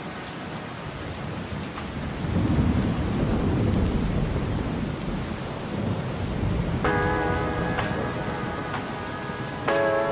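Steady rain falling, with a long low rumble of thunder starting about two seconds in and dying away a few seconds later.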